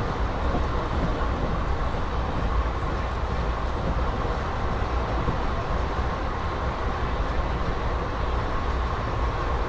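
Passenger train coach running at speed, a steady rumble of wheels on the rails with wind rushing past, heard from an open coach window.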